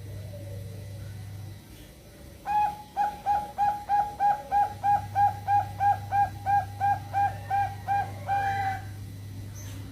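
Zebra dove (perkutut) cooing: a quick run of about eighteen short, even coo notes, about three a second, starting a couple of seconds in and closing on one longer note, over a steady low hum.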